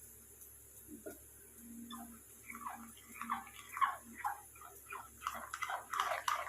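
Thick mug-cake batter being beaten by hand, the utensil scraping and clicking against the mug in a quick rhythm of about three strokes a second. The strokes get faster and louder over the last second or so.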